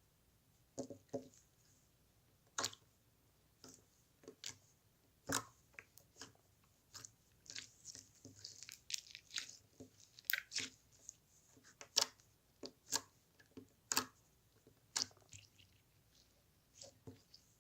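A series of close, irregular crunches and clicks, a few a second with short pauses, like someone chewing crunchy food.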